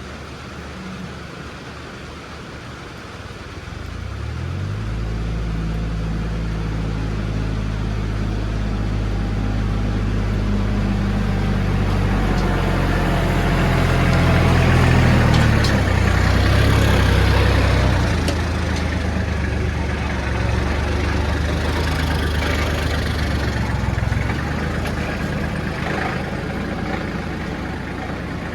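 A vehicle engine running. It comes up about four seconds in, runs louder and harder through the middle, then eases to a steadier, lower run.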